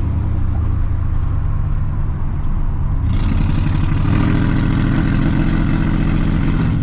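Pickup truck's engine running through its newly fitted exhaust while driving, growing louder and harsher about three seconds in. It runs rough and sounds like it's drowning, like it can't breathe, which the owner takes as needing a tune.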